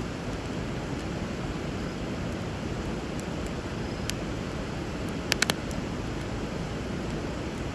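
Bonfire burning over a river: a steady rush of flowing water with occasional sharp crackles from the fire, a single pop about four seconds in and a quick run of three louder pops about a second later.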